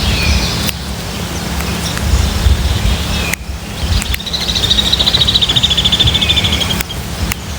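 Wild songbird calling: a few short notes, then about four seconds in a fast, even trill lasting roughly two and a half seconds, over a steady low rumble.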